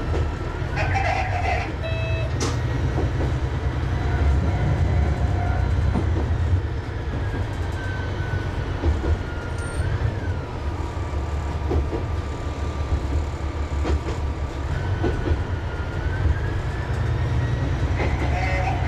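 Diesel railcar heard from on board while running slowly: the engine rumbles steadily under a whine that rises in pitch near the start, drops about ten seconds in and climbs again about fifteen seconds in, with an occasional click from the wheels over the rails.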